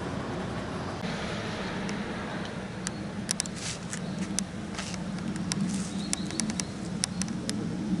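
Train running past a level crossing: a steady low hum and rushing noise, with a scatter of sharp irregular clicks from about three seconds in.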